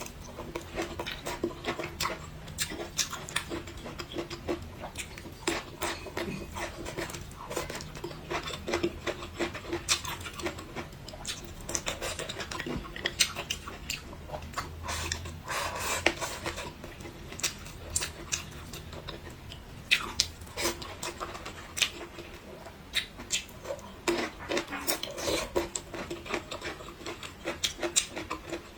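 Close-miked eating sounds: chewing and mouth smacking, with utensils clicking against dishes, in a dense, irregular run of short sounds.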